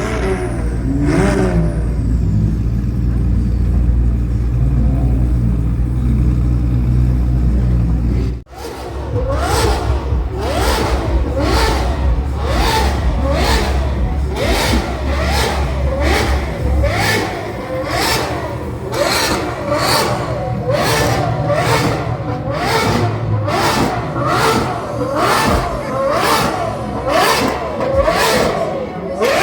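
Exotic car engine rumbling steadily at first, then, after an abrupt cut about eight seconds in, revved over and over in quick blips about once a second, each rev rising and falling in pitch with a sharp crack.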